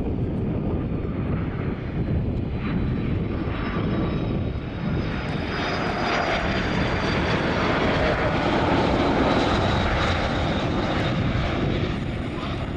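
Airplane engines running, the noise growing louder about five seconds in, with a faint high whine over it. Wind rumbles on the microphone throughout.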